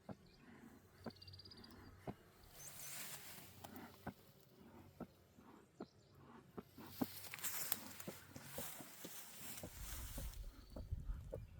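Light, irregular taps and clicks about once a second, with two longer spells of rustling and a low rumble near the end.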